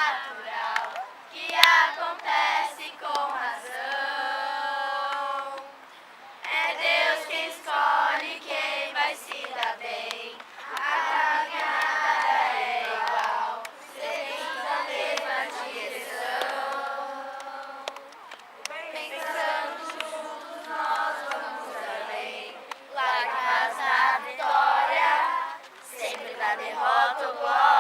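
A group of children singing together in chorus, in sung phrases with short breaks between them.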